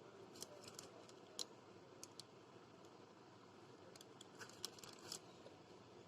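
Near silence with a few faint, sharp clicks and taps of small parts and tools being handled at the workbench, most of them in a cluster near the end.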